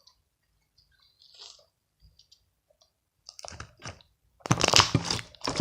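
Crunchy clear-glue slime crackling and popping as it is pressed and pulled: a dense run of small crunchy clicks. It starts about three and a half seconds in and grows louder a second later, after a few faint ticks.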